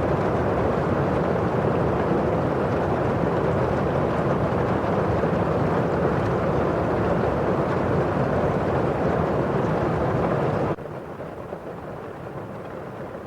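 Steady rain on window glass, an even, dense hiss of drops. About eleven seconds in it drops suddenly to a quieter, duller level.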